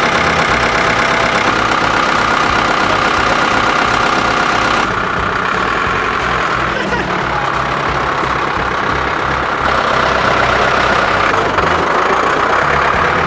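Diesel engine of a 1970s Ford tractor running steadily, loud and close, shortly after being started with the glow plugs. The sound shifts abruptly about five and again about ten seconds in.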